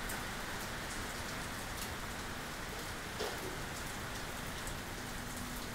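Heavy tropical rain falling in a steady downpour.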